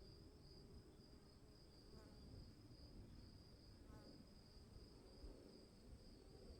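Faint crickets chirping in a steady, pulsing high trill over a low background rumble, with two brief faint chirps about two and four seconds in.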